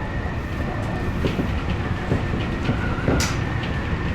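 Odakyu electric commuter train running along the line: a steady rumble with a thin steady whine and scattered rail clicks, one sharp click about three seconds in.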